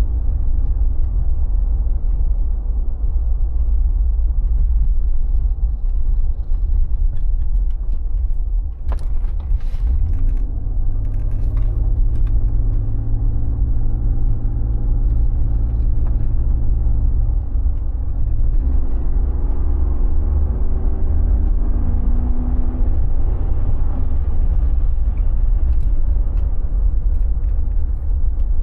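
Mercedes G 36 AMG's straight-six engine and road rumble while driving. The engine note holds steady for several seconds, then climbs in pitch as the vehicle accelerates. A few sharp clicks come just before the first steady stretch.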